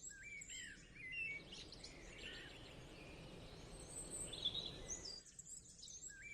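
Small birds chirping and twittering, with a steady rushing noise swelling in about a second in and falling away about a second before the end.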